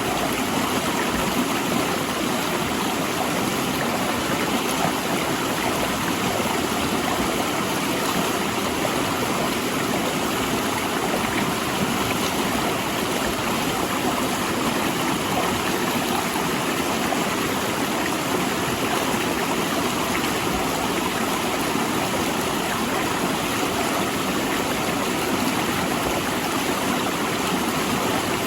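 A rushing river flowing over and between large rocks: a steady, even rush of water.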